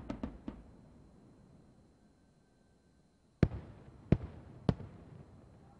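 Aerial firework shells going off. A quick cluster of sharp cracks at the start dies away over a couple of seconds. A little over three seconds in come three loud bangs about half a second apart, each trailing off.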